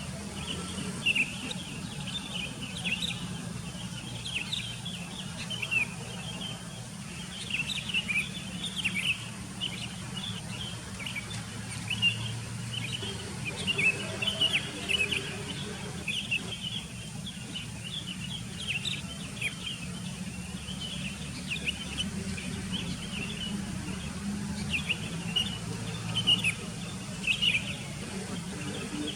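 A group of small birds chirping continuously, many short quick calls overlapping, over a low steady hum.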